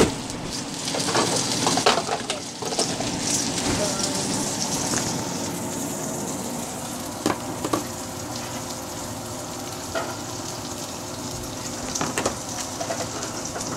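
Pork chops sizzling in a frying pan on a stovetop, a steady hiss, with a few sharp clicks and knocks in the second half.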